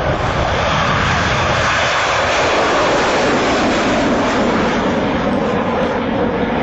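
BAe Jetstream 41 twin turboprop in flight, its Garrett TPE331 engines and propellers giving a loud, steady roar.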